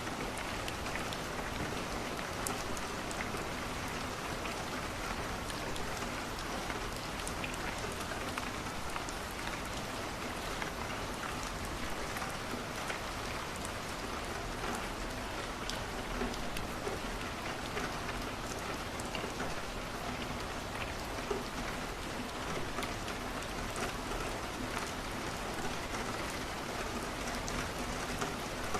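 Steady rain falling on a window, an even hiss with scattered faint ticks of drops running through it.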